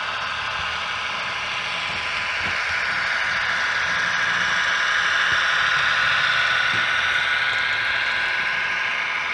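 OO gauge model train running along the track, a steady whirring hiss of motor and wheels on rail that grows louder as it draws near, peaks about halfway through, then eases as it moves away.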